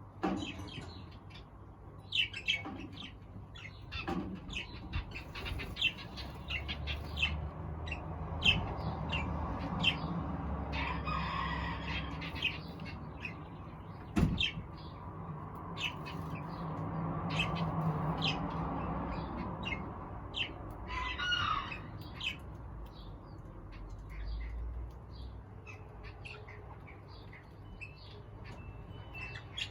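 Aviary birds chirping and calling: a steady run of short, high chirps, with two longer, harsher calls about 11 and 21 seconds in, over a low rumble. A single sharp click sounds about 14 seconds in.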